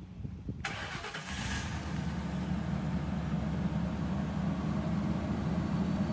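A Mercury sedan's engine is cranked and catches about a second in, then settles into a steady idle, heard from behind the car at the exhaust.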